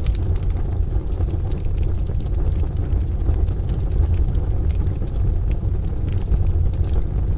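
Wood fire crackling in a stove, with scattered sharp pops and clicks over a steady low rumble of rain and distant thunder.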